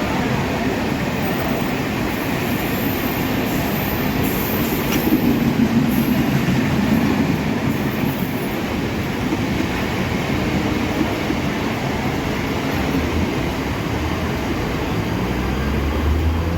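Mumbai suburban local train running on the rails: a steady, loud rumble and rattle of the moving train. A rising whine comes in near the end.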